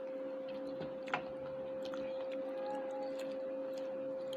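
Two cats fighting, with one faint drawn-out yowl about halfway through, over a steady hum. A sharp click comes about a second in.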